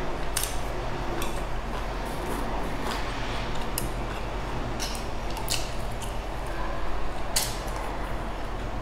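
Eating sounds from someone chewing a mouthful of steamed dumplings: short sharp mouth smacks and chopstick clicks, about one a second, over a steady hiss and low hum.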